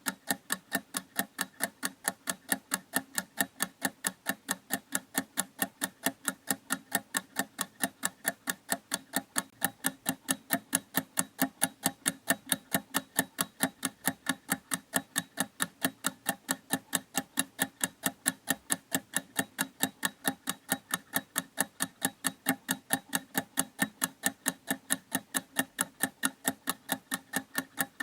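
Mechanical clock ticking in a fast, even rhythm, several ticks a second, with alternate ticks a little louder in a tick-tock pattern.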